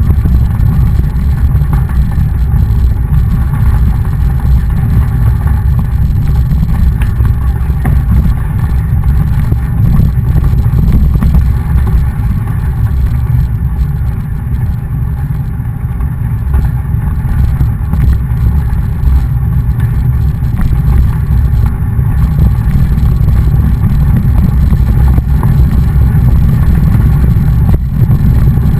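Loud, steady low rumble of wind buffeting the microphone of a camera on a moving mountain bike, easing a little about halfway through.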